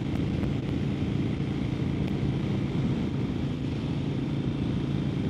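Harley-Davidson XL1200N Nightster's air-cooled V-twin running at a steady road cruise, a low steady drone under a rush of wind and road noise.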